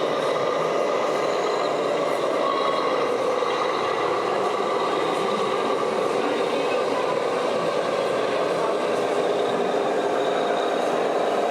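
Radio-controlled scale trucks and construction machines running: a steady mechanical whine with several held tones.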